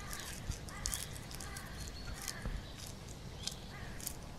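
Faint outdoor ambience: a bird repeating a short call every second or so, with scattered light clicks at irregular moments.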